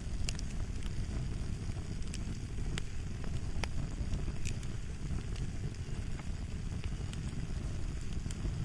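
Fire crackling: a steady low rumble of burning with sharp pops and snaps scattered through it.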